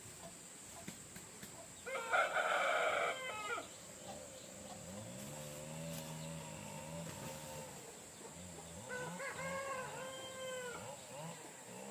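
Rooster crowing twice: a loud crow about two seconds in and another about nine seconds in, with a lower drawn-out call between them.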